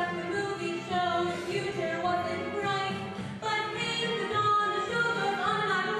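Music: several voices singing a song together.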